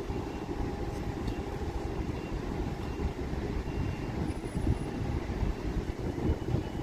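Steady low rumble of jet airliner engines, with faint thin tones above it.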